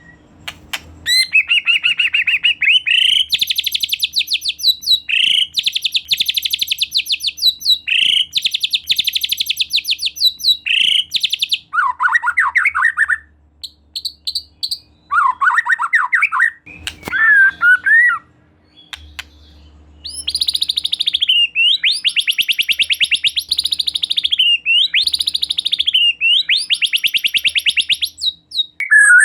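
White-rumped shama (murai batu) singing: loud, rapid trills of quickly repeated notes, each bout lasting one to two seconds, with short breaks between them. A few lower, warbled phrases come about halfway through.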